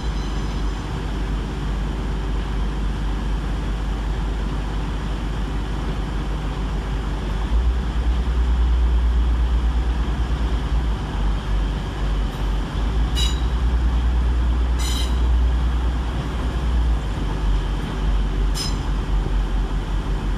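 Low diesel engine drone of a Class 185 diesel multiple unit moving through the station, growing louder about seven seconds in and easing off near the end. Three brief high-pitched squeals come in the second half.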